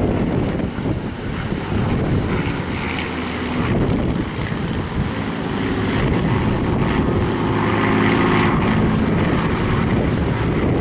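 A Spitfire Mk IX's Merlin piston engine heard during a display pass. Its note builds to its loudest about eight seconds in, and wind buffets the microphone throughout.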